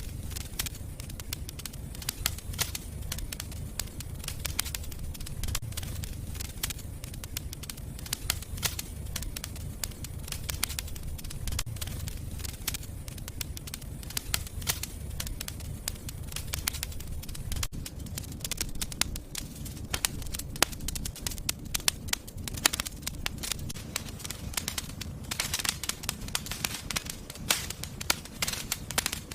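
Wood fire crackling in a fireplace: many sharp pops and snaps over a steady low rumble of the flames, with the pops coming thicker near the end.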